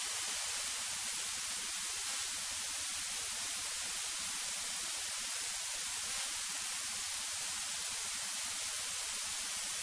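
Steady electronic hiss from a cockpit intercom audio feed, with no engine tone or other sound coming through.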